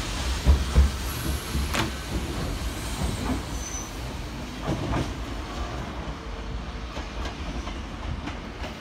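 Sanyo Electric Railway limited express train pulling out of the station. Its wheels clack over the rail joints several times as the rumble fades away.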